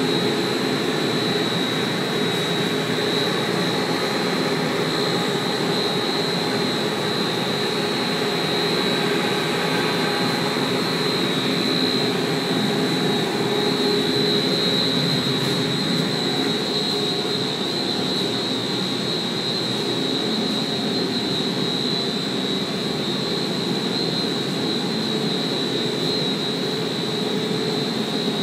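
Aerco heating hot water boilers running in a boiler room: a steady roar with a constant high-pitched whine over it.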